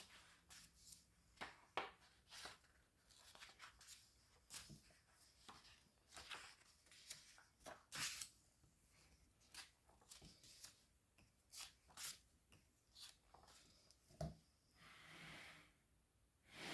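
Faint paper sounds of a book's pages being turned: scattered short rustles and soft taps, with a longer rustle of a sliding page a little before the end.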